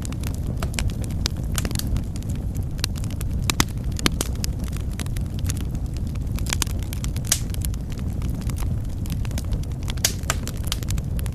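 Wood fire burning in a fireplace: a steady low roar of flames with frequent irregular crackles and sharp pops.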